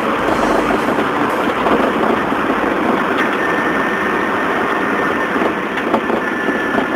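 A car running, with a steady dense engine and road noise; a faint thin high whine joins about three seconds in.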